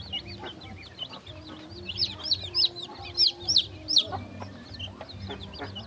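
A flock of baby fowl peeping: many overlapping high chirps, with a burst of about six loud, sharp peeps in the middle.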